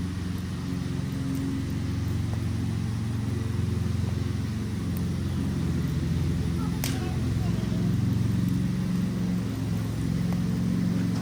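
Wood fire burning with a few scattered crackles and one sharp pop about seven seconds in, over a steady low rumble.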